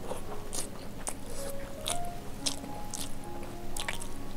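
Close-up chewing of a handful of rice, with many short mouth clicks and bites, over soft background music with held notes.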